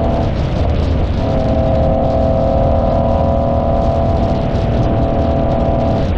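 Car engine and exhaust running at a steady speed, a constant drone that breaks off briefly about half a second in, then holds steady again.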